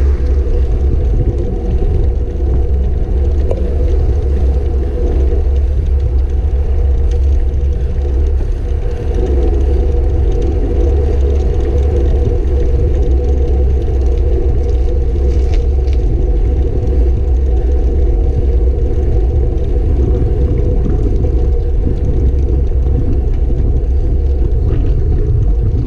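Steady, loud low rumble of wind and road noise on the microphone of a camera riding along on a moving bicycle.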